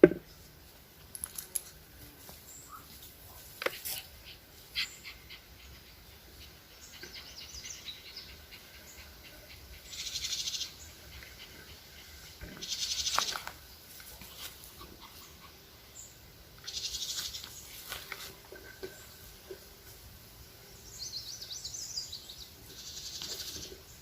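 An animal's short, rapid high trills, about five of them spaced a few seconds apart, over light rustling and scattered clicks from raspberry picking in the bushes.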